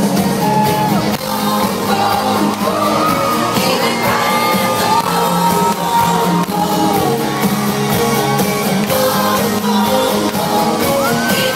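A live pop song from an amplified band, with a singer holding long, gliding notes.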